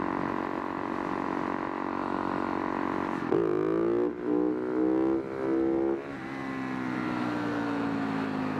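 Husaberg FS570 supermoto's single-cylinder four-stroke engine running steadily, then revved up sharply about three seconds in, held higher with two brief dips, and eased off at about six seconds, its pitch slowly sinking.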